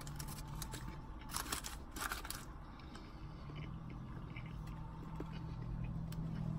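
A man chewing a mouthful of burger, with a few soft wet mouth clicks. From about three seconds in he holds a long, steady closed-mouth "mmm" of enjoyment.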